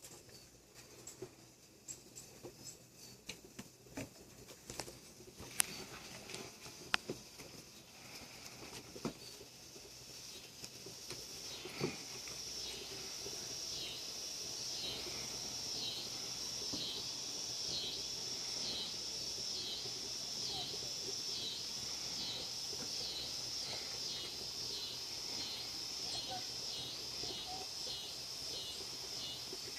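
Kittens playing: light, scattered taps and pattering of small paws and bodies, with a couple of sharper knocks. About ten seconds in, a steady high-pitched pulsing hiss rises and carries on over them.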